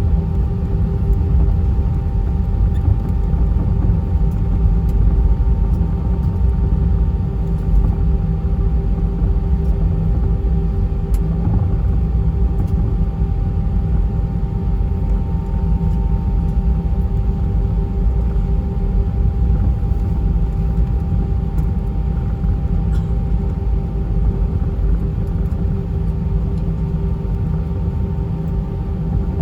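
Inside the cabin of an Airbus A320-232 taxiing. There is a steady low rumble from the engines at idle and the wheels rolling, with a steady engine hum over it.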